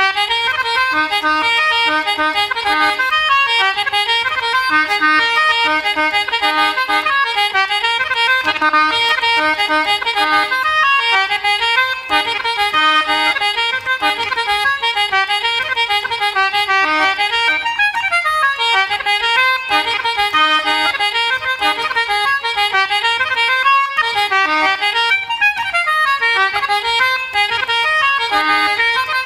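Irish reels played at a fast, even pace on squeezeboxes, a melodeon with button accordion accompaniment, in quick runs of notes over held chords.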